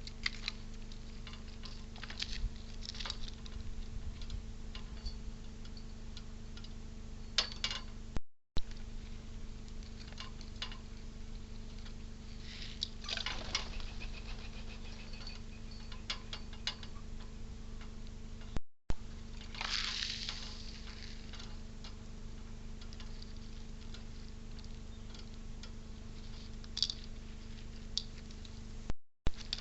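Squirrel scrabbling and feeding at a bird feeder: scattered small clicks, ticks and scratches, with short rustling bursts about thirteen and twenty seconds in, over a steady low electrical hum.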